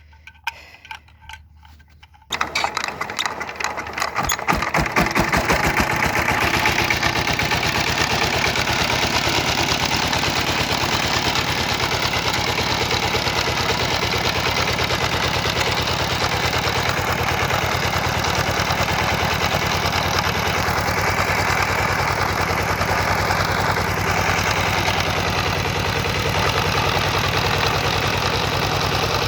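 Power tiller engine catching about two seconds in, its firing knocks quickening over a few seconds until it runs steadily. This is the restart of the tiller after a breakdown repair.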